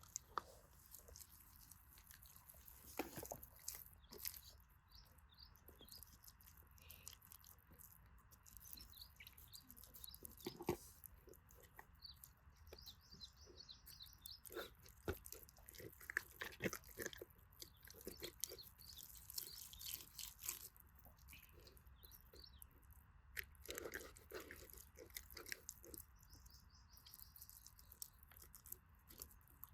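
Faint crackling and popping of a wood campfire under a grill, with irregular sharp snaps scattered through a low steady hiss.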